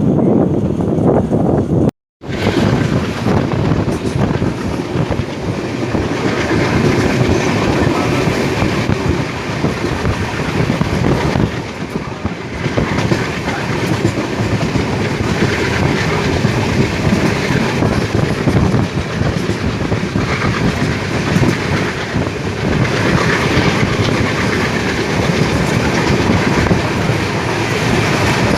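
A moving passenger train running on the rails, with a steady loud rumble and rattle of wheels and coaches. The sound cuts out completely for a moment about two seconds in.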